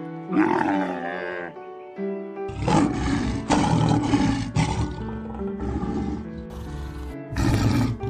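Lion roaring: a run of rough, noisy roars starting about two and a half seconds in, over background music. A shorter pitched animal call sounds at the start.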